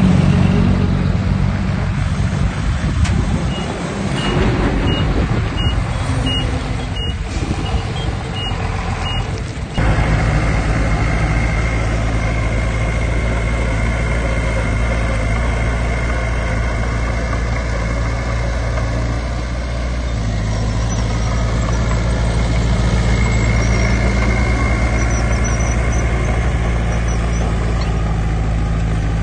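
Diesel earthmoving machinery running, with a reversing alarm beeping about eight times, evenly spaced, in the first ten seconds. After an abrupt change, a steady diesel engine drone follows.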